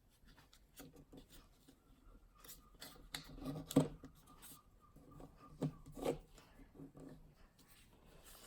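A square sheet of paper being folded and creased by hand: soft rustling and rubbing, with a few louder crinkles about four and six seconds in.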